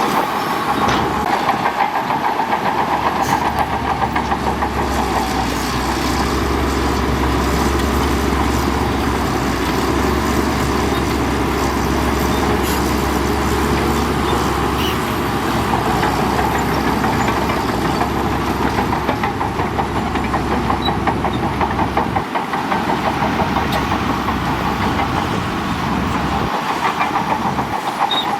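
Bulldozer's diesel engine running under load with the steel tracks clattering as it pushes gravel; the low rumble eases off about three-quarters of the way through.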